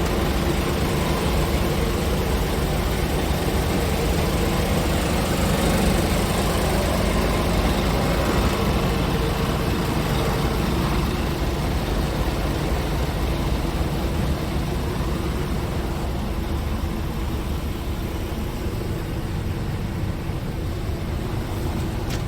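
Scania R490 truck's diesel engine running steadily, a low even engine sound with no revving.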